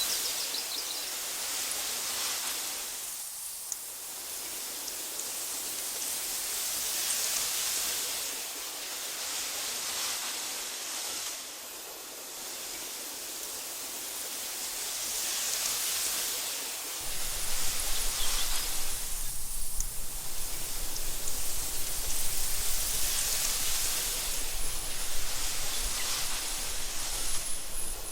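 Wind blowing through meadow grass: a soft, high rushing hiss that swells and dies away in slow gusts. A little over halfway through, a low, uneven rumble joins it.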